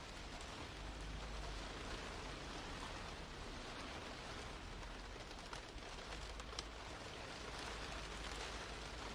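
Steady rain falling, an even hiss with scattered individual drops ticking on a surface, one sharper drop tap about six and a half seconds in.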